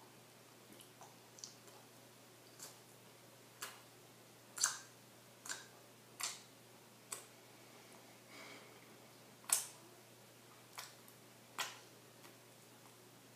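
Potato chips crunching inside a burrito as it is chewed: about a dozen faint, irregular crunches, the loudest a little under five seconds in and about nine and a half seconds in.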